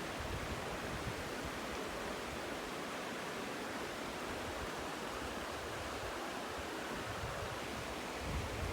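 Steady rushing noise of flowing water, with a little low wind rumble on the microphone near the end.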